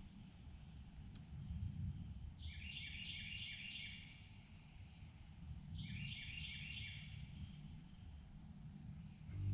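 A songbird singing twice, each time a short run of quick repeated notes, over a faint steady low outdoor rumble.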